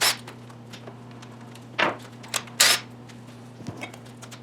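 Three short, sharp clatters, at the very start, at about two seconds (doubled) and shortly after, with a few faint ticks later on, over a steady low electrical hum.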